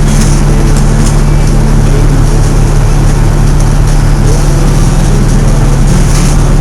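Fire truck engine running: a loud, steady low drone.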